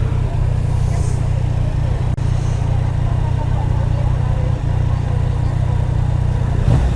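Yamaha Niken's three-cylinder 850 engine running steadily through an Akrapovic exhaust while the bike rides along.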